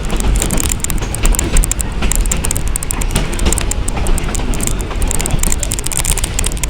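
Riding a steam-hauled passenger train: a steady low rumble from the running gear with rapid clicking and rattling of the wheels and coach.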